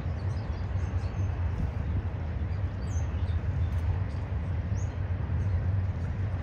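Double-stack intermodal freight train rolling steadily past: a continuous low rumble of wheels on rail, with small birds chirping faintly over it.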